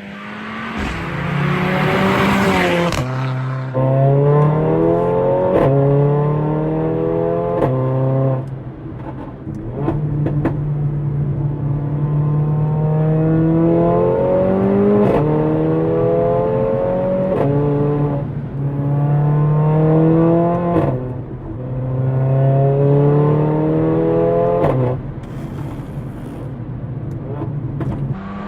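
Mercedes-AMG A45's 2.0-litre turbocharged four-cylinder engine accelerating hard. Its pitch climbs steadily, then drops sharply at each gear change, over and over.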